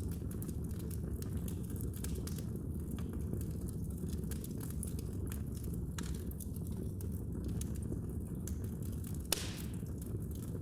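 Wood fire in a fireplace crackling: a steady low rumble of flames with frequent small pops, and one sharper pop about nine seconds in.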